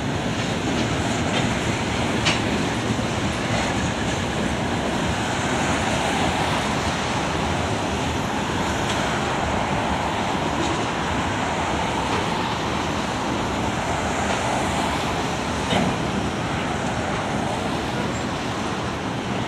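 Freight train cars rolling past on the rails: a steady rumble and hiss, with a sharp clank about two seconds in and another near the end.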